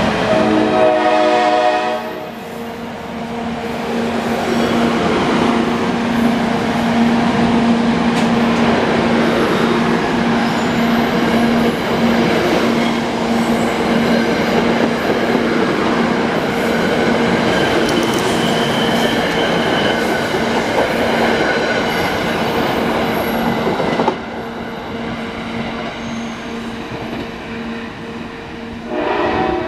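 NJ Transit ALP-45DP locomotive's horn sounds briefly as the commuter train pulls away. It is followed by the steady rumble and clatter of the passenger cars' wheels on the rails over a steady engine hum. The rumble drops off suddenly about three-quarters of the way through as the last car passes, and the horn sounds again, farther off, near the end.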